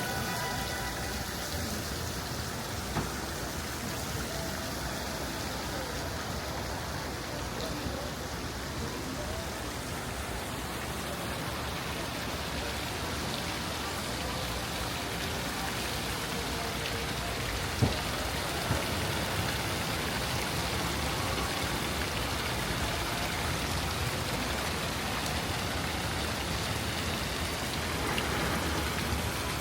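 Steady hiss of outdoor city street ambience, with a sharp knock about three seconds in and a louder one a little past the middle.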